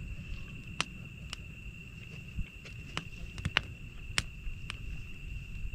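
Campfire wood crackling, with sharp pops at irregular intervals, over a steady high-pitched trill of insects.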